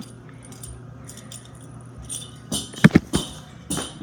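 A ragdoll cat running down stairs, its collar jingling lightly, with a few sharp thumps of its landings about three seconds in, the loudest sounds here.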